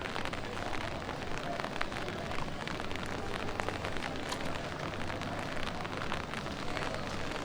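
Light rain pattering steadily on the street and nearby surfaces, with many small drop ticks over a soft hiss.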